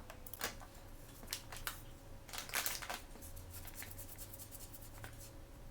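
Hands handling and opening blind-bag toy packaging: crinkling plastic and small clicks in short bursts, the loudest crinkle about halfway through, then a quick run of light clicks.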